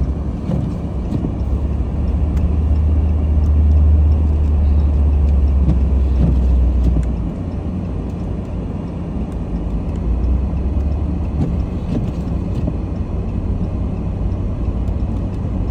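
Car cabin noise while driving on snowy roads: steady engine and tyre rumble. A heavier low rumble swells from a second or two in and eases off about seven seconds in.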